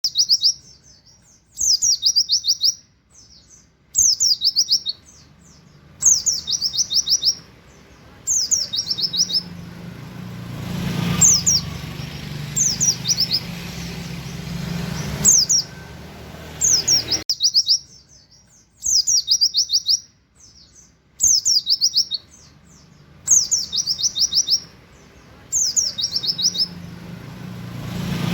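Oriental white-eye (pleci, buxtoni type) singing its fast 'nembak' song: short bursts of rapid, high, canary-like 'wit wit' chirps, repeated about every two seconds. A low steady rumble runs under the middle part.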